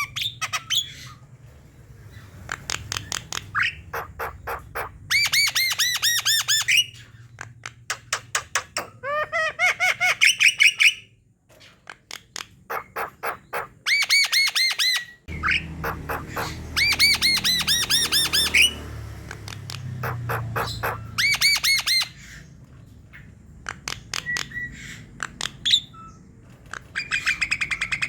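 Javan myna (jalak kebo) singing: repeated bursts, each a second or two long, of fast, harsh, rapidly repeated notes with short pauses between.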